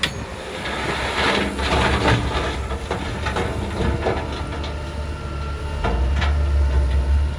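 Crawler bulldozer's diesel engine working under load, with metal clanking and knocks from its tracks and blade. The engine grows louder about six seconds in.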